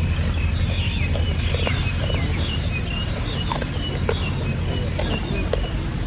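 Small birds chirping in short, quick calls over a steady low rumble. A thin high whistle sounds for about two seconds midway.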